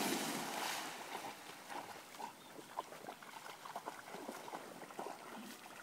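Dogs playing in a shallow creek: a burst of water splashing in the first second, then quieter scattered splashes and small dog sounds.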